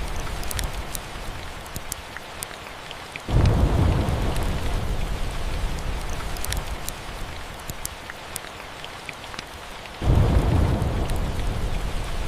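Steady rain with two deep rumbles of thunder: one begins abruptly about three seconds in and another near the end, each fading slowly. Scattered sharp crackles from a wood fire sound over the rain.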